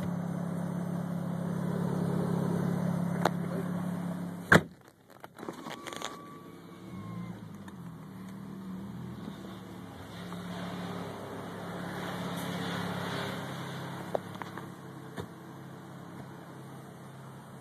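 Steady droning hum heard inside the closed cabin of a car with a manumatic automatic transmission: the unexplained weird sound being recorded. About four and a half seconds in there is a sharp click, the hum drops away, then comes back shifting in pitch before settling to a weaker drone.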